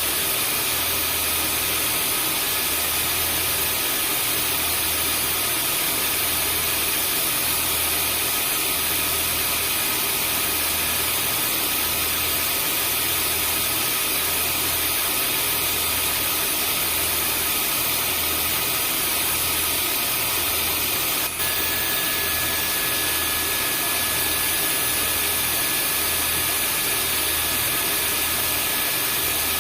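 Vacuum cleaner motor running steadily as white noise: an even hiss with a thin whine over it and a low throb about once a second. Shortly after the middle, the level dips for an instant and a slightly higher whine joins in.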